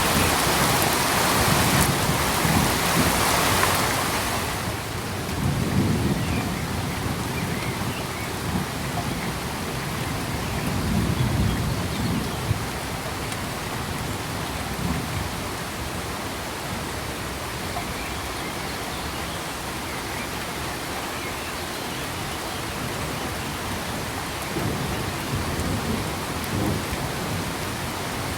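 Steady rain with low rolls of thunder coming and going several times. The rain is heavier at first and eases about five seconds in.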